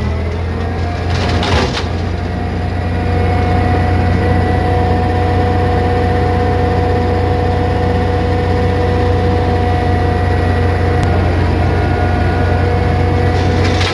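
Branch shredder (chipper) machine running steadily: a low engine drone with a steady whine above it. There is a single sharp knock just under two seconds in.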